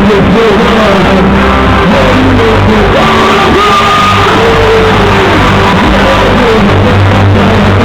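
Loud live music with a voice singing and shouting over a steady bass, recorded at full level.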